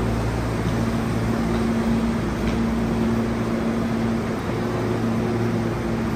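Steady rumbling hum of a Hankyu electric train at a station platform, with a low drone that cuts in and out every second or two.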